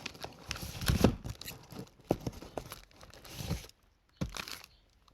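Fireworks packaging being handled: irregular crinkling and rustling of cardboard and wrapping, with a few knocks, stopping near the end.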